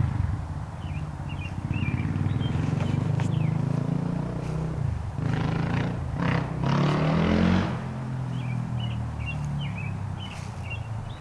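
A motor vehicle's engine running close by, rising in pitch about seven seconds in and then fading off, with small birds chirping in short high phrases near the start and again near the end.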